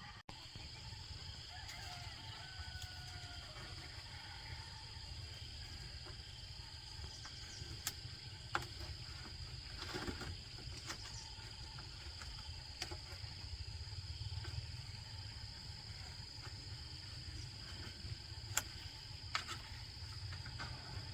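Steady high-pitched insect drone in the forest, over a low rumble, with a few sharp knocks or clicks scattered through it.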